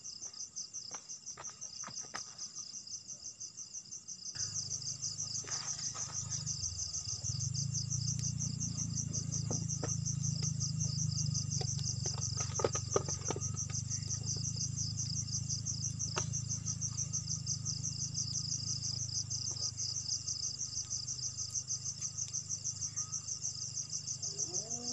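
Insects chirping in a fast, steady, pulsing trill. About four seconds in, a low rumble joins and continues underneath, with a few faint clicks.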